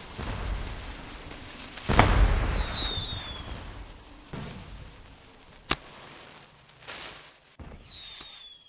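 Fireworks going off: a loud bang about two seconds in, followed by falling whistles, a sharp crack later, and another falling whistle near the end, over a background of crackling and rumbling.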